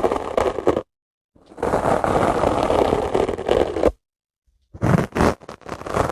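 Dry sponge worked close to the microphone: two long rasping scrapes with dead-silent gaps between them, then a run of quick scratches starting about three-quarters of the way in.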